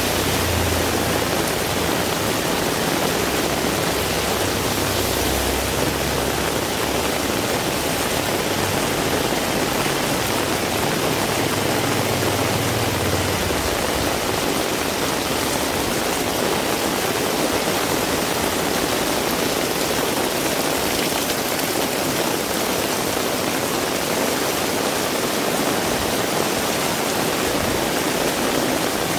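Heavy rain falling steadily, a dense even hiss. A low rumble sits under it for the first half and fades out about halfway through.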